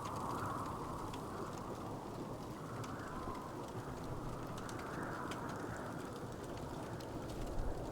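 Wood fire crackling, with many small, sharp pops scattered over a steady low noise bed that gently rises and falls every couple of seconds.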